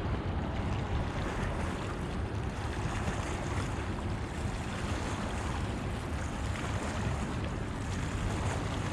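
Steady wind noise rushing over the microphone, a constant rumbling hiss with no distinct events.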